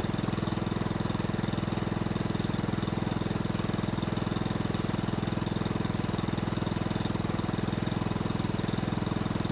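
Riding lawn mower's replacement single-cylinder engine running steadily with an even, rapid exhaust beat, the engine running so that the charging system can be checked.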